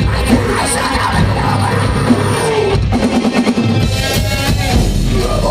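Metalcore band playing live: distorted electric guitars, bass and a pounding drum kit, loud and dense throughout.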